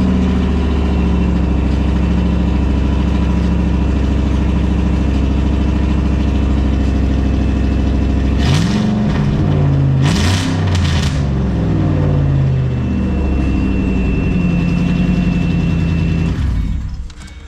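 2008 Shelby GT500's supercharged 5.4-litre V8 idling loudly, blipped three times about halfway through, then settling back to idle. The sound drops away sharply near the end.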